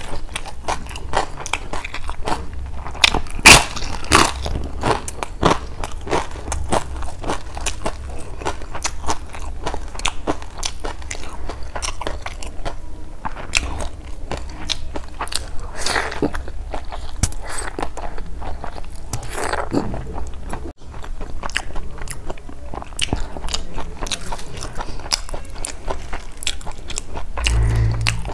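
Close-miked mouth sounds of a person eating a curry-and-rice meal by hand: steady chewing and biting, with crisp crunches from papad (fried poppadom), the loudest about three and a half seconds in.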